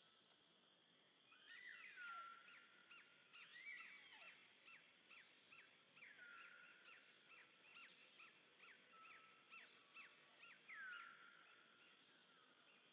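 Faint animal calls: a run of short chirps, two to three a second, with a few longer falling whistles among them. They start about a second and a half in and stop near the end.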